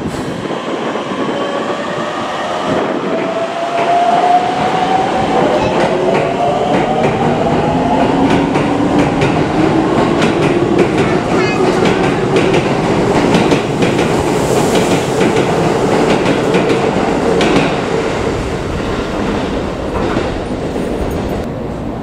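Electric commuter train accelerating, its motor whine climbing steadily in pitch over rumbling wheels, with wheels clicking over rail joints as it gathers speed; the sound swells and then eases toward the end.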